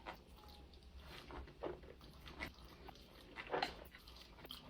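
Faint eating sounds: a few soft, short noises of someone starting to eat, spaced about a second apart.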